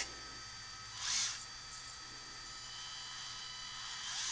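Small electronics cooling fan running with a faint steady whine and hum, with a brief hiss about a second in.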